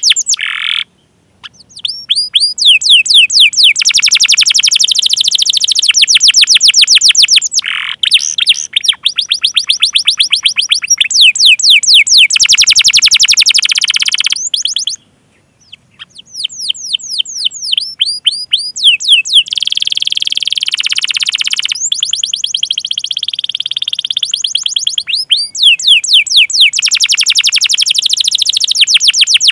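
Domestic canary singing long rolling runs of rapid, repeated sweeping chirps ('cuit cuit'), the phrases changing in speed and pitch, broken by two short silences, about a second in and about halfway.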